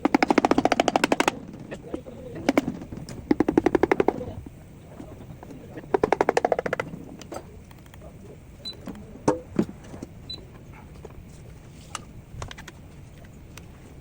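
Impact wrench hammering in three short bursts of rapid, even blows, each about a second long, as it works fasteners on a Toyota 1FZ engine; scattered metal clicks and knocks of tools follow.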